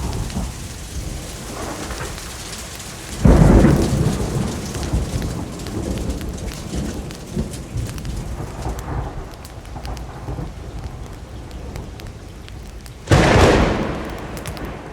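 Steady rainfall, with two rolls of thunder: one about three seconds in and a second, equally loud one near the end, each hitting suddenly and fading over a second or two.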